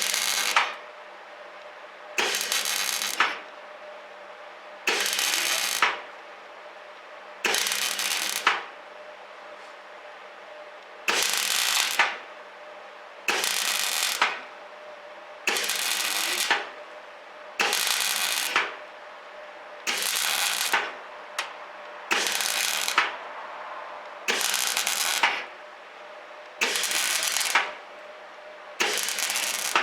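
Semi-automatic (MIG) welder laying short stitch welds on a patch plate: about thirteen one-second bursts of sizzling, crackling arc, one every two seconds or so, with the welding machine's steady hum between them.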